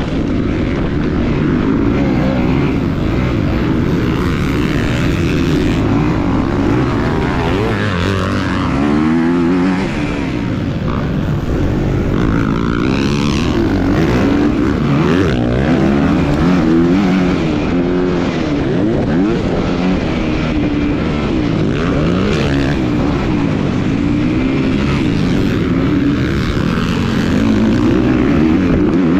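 A 250 cc motocross bike's engine run hard, its pitch climbing and dropping again and again as the throttle is opened and closed through corners and gear changes.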